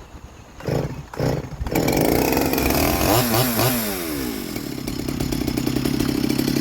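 Small chainsaw being started: two short pulls on the starter cord, then the engine catches, revs up and down a few times and settles into steady running.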